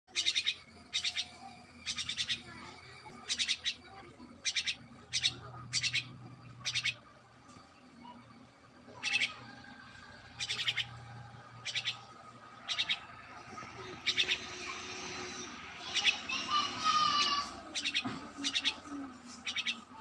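A bird giving short, harsh, raspy calls, repeated about once a second, with a busier stretch of chattering and whistled notes about three-quarters of the way through.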